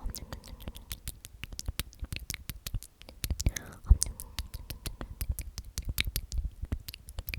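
Close-miked whispering of 'omnomnom' repeated, with many quick wet mouth clicks and lip smacks several times a second.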